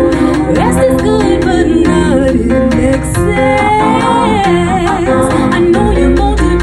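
Live song performance: a singer's voice gliding through long sung notes over instrumental accompaniment with a steady beat.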